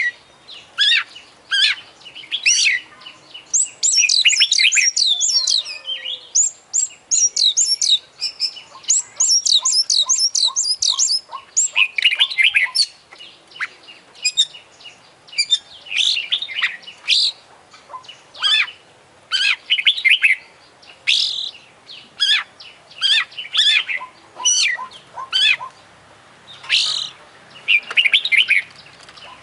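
Oriental magpie-robin (kacer) singing vigorously: a continuous string of short, sharp, high whistled notes and chirps full of mimicked calls, with fast trilled runs about four and nine seconds in.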